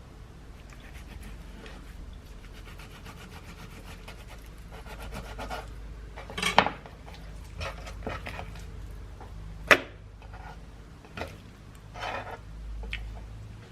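Rubbing and scraping with light rapid ticks, broken by a few sharp knocks, the loudest a little after the middle.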